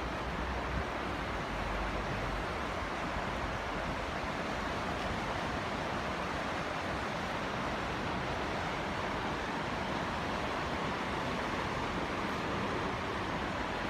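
Water rushing steadily over a small waterfall: a continuous, even hiss of falling water.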